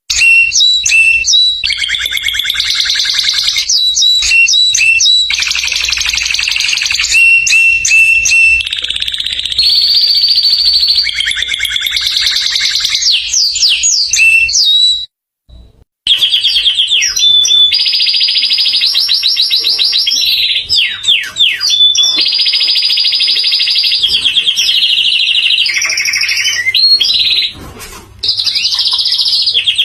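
Domestic canary singing a long song of rapid rolling trills and held, buzzing tours, loud and nearly unbroken. It breaks off for about a second around the middle, then carries on.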